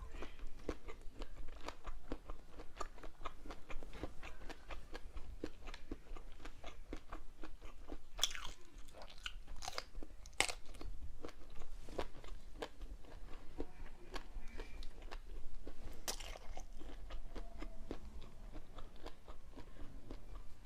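Close-up chewing and biting of smoked meat sausages with a crisp casing: a steady run of small crunchy clicks, with a few louder bites around eight, ten and sixteen seconds in.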